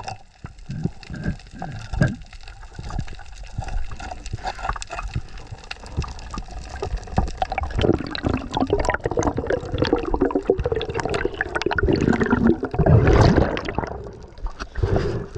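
Water sloshing, splashing and gurgling close to the microphone, in irregular bursts that get busier and louder over the second half.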